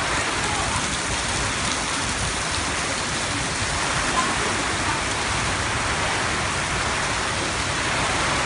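Heavy rain falling steadily and drumming on surfaces, a dense, even hiss with a few faint ticks of individual drops.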